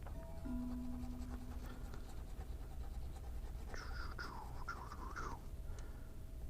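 Faint scratching of a scratch-off lottery ticket over a steady low hum, with a brief wavering high-pitched whine about four seconds in.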